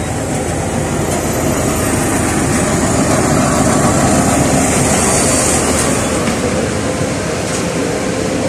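LiAZ 4292 city bus under way, heard from inside the cabin: a steady drone of engine and road rumble. It builds a little about three seconds in and eases off after about six seconds.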